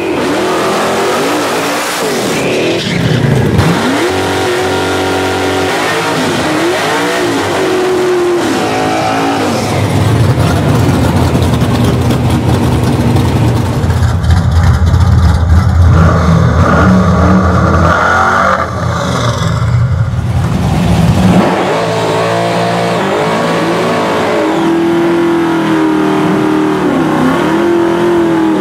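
Nostalgia drag race cars doing burnouts and launches: loud engines revving up and down, with a long stretch of hard, full-throttle running in the middle.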